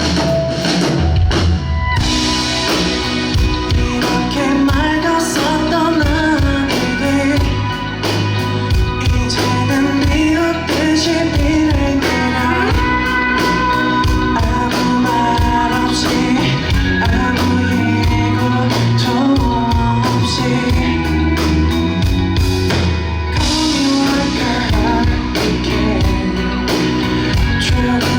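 Live rock band playing: drum kit, guitars and bass, with a sung melody over them.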